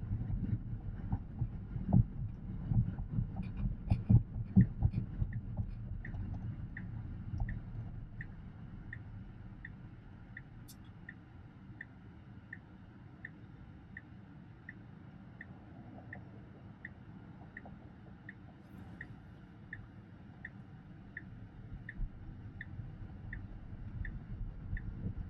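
Turn-signal indicator ticking steadily inside a Tesla Model X cabin, about one and a half ticks a second. Under it is a low cabin rumble with a few thuds during the first several seconds, then it settles down.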